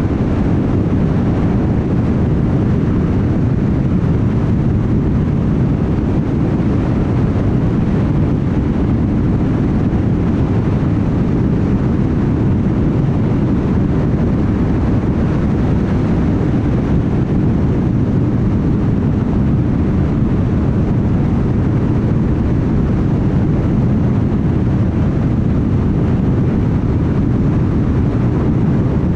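Car travelling at highway speed: a steady, even roar of tyres on the road and engine drone, without change.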